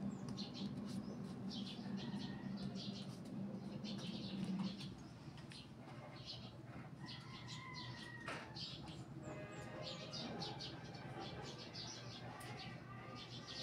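Small birds chirping over and over, short high chirps throughout. A low steady hum runs under them for the first few seconds and stops about five seconds in.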